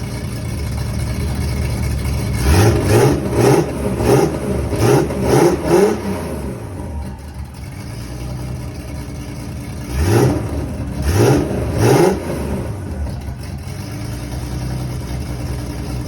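Nissan GT-R drag-racing engine idling, then revved in about six quick throttle blips, settling back to idle before three more blips. A freshly built engine running on its first start.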